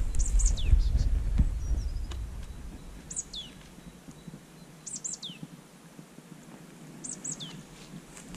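A songbird calling four times: each phrase is a few high whistled notes sliding steeply downward. Wind rumble on the microphone fades away over the first few seconds.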